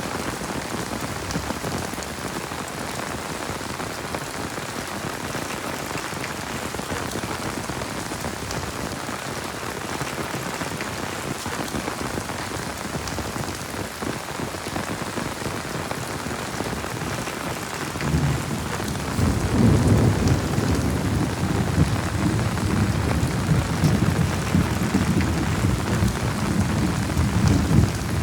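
Heavy rain falling steadily. About two-thirds of the way in, a low rumble of thunder rolls in under the rain and keeps on.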